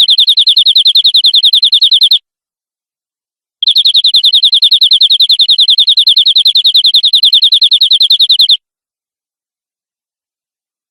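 Domestic canary singing two high-pitched rolling trills of rapid, evenly repeated notes. The first trill breaks off about two seconds in; the second starts about a second and a half later and runs about five seconds.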